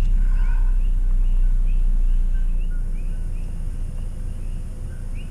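Car's low road and engine rumble, fading as the car slows, with short rising chirps from animals outside repeating about twice a second.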